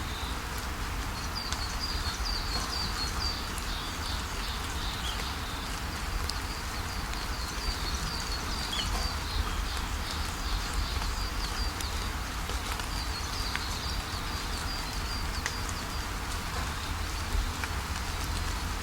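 Steady rainfall pattering, with scattered drop ticks. A bird calls over it in short runs of quick, repeated high chirps that come and go several times.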